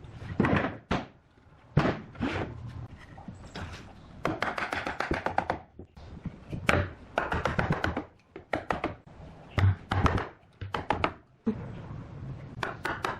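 Wood being struck repeatedly with hand tools: irregular knocks and thunks, with runs of quick strikes about four seconds in and again near the end.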